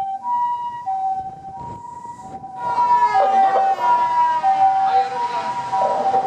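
Japanese ambulance two-tone hi-lo siren, alternating steadily between a higher and a lower tone. About two and a half seconds in, a louder second siren joins it, gliding slowly down in pitch.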